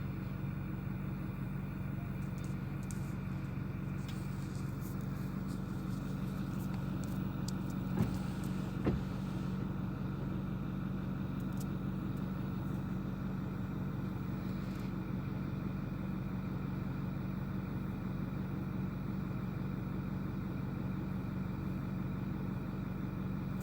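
Truck engine idling steadily, heard from inside the cab as a low, even hum, with two small knocks about eight and nine seconds in.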